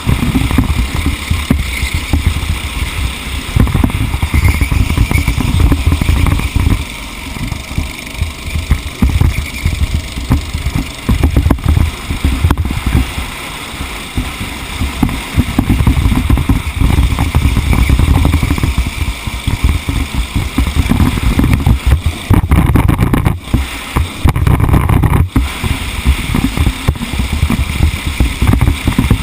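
A vehicle engine running under load during a race stage, its loud rumble rising and falling throughout.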